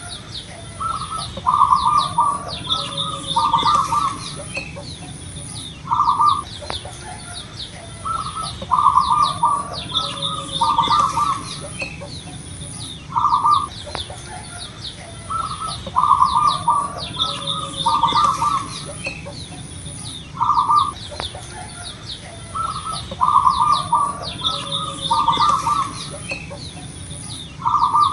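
Zebra dove (perkutut) cooing its song: one note, a short pause, then a quick run of three or four coos, the phrase repeated about every seven seconds. Smaller birds chirp faintly and high in the background, over a steady high whine.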